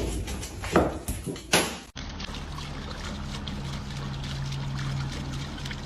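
A few short loud sounds, then, after an abrupt cut about two seconds in, a steady stream of running water with a low hum under it.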